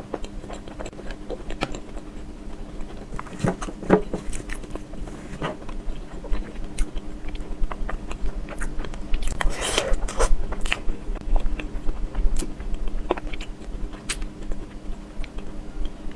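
Close-miked eating sounds: irregular wet chewing and mouth smacks with scattered soft clicks, busiest about two thirds of the way in, over a faint steady low hum.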